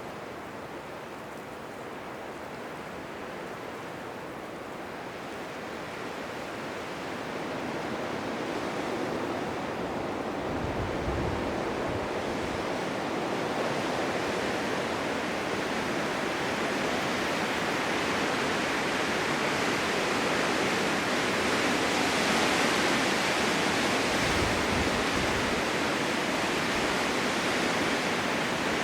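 Blizzard wind blowing, a steady rushing noise that swells gradually over the first half and becomes brighter, with two brief low rumbles of gusts, one about the middle and one near the end.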